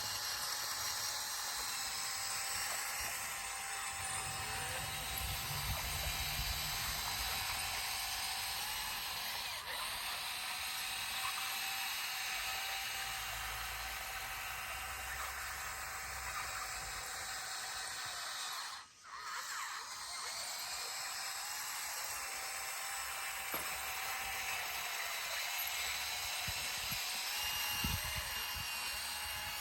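Bulldozer at work: its engine runs with a steady high whine over a low rumble that swells and eases at times, and the sound drops out for a moment about two-thirds of the way through.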